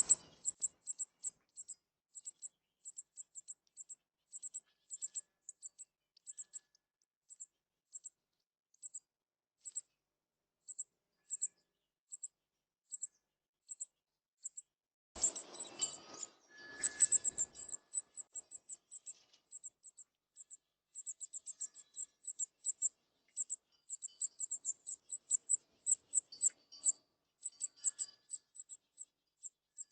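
Northern cardinal nestling begging for food: a stream of short, very high chips, uneven in pace and coming faster and denser in runs about halfway and again toward the end. A loud rustling burst comes about halfway through, alongside the fastest calling.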